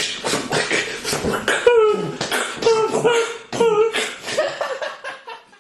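A voice beatboxing: short, noisy mouth-percussion strokes mixed with brief sung notes.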